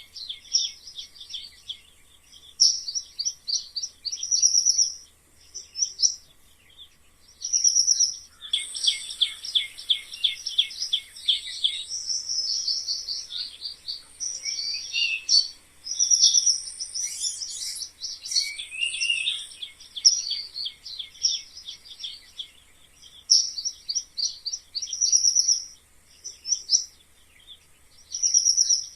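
Mice squeaking: short runs of high, thin, rapid chirping squeaks, coming in bursts with brief pauses, thickest in the middle.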